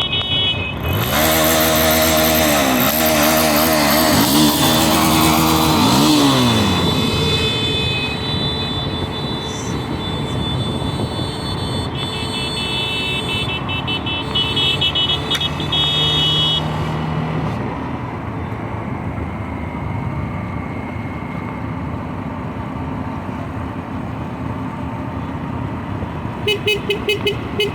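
Copa Truck racing trucks running hard on the circuit. For the first several seconds their engine note is loud and sweeps up and down in pitch several times, then it settles into a steadier, quieter engine noise. Near the end a horn honks in rapid repeated pulses.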